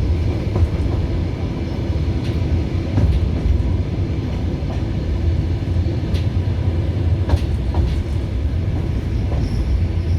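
Passenger train carriage running on the track, heard from inside: a steady low rumble of the wheels, with sharp clicks here and there as they cross rail joints.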